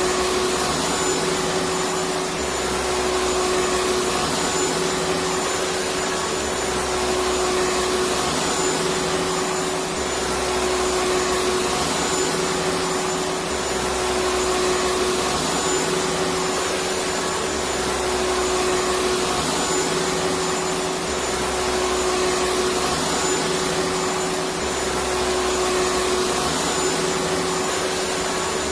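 Electric vacuum cleaner running steadily: a continuous rush of air with a steady motor whine, unchanging throughout.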